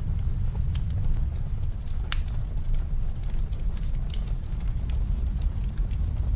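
Wood fire crackling in a fireplace: irregular sharp pops and snaps scattered a few per second over a steady low rumble of blizzard wind.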